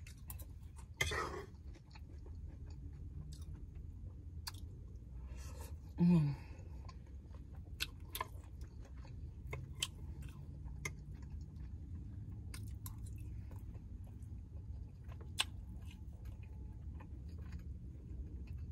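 Close-up chewing of a mouthful of tender Brussels sprouts, with wet mouth sounds and scattered light clicks of a metal fork against the plate. A brief hum of the voice about six seconds in is the loudest moment.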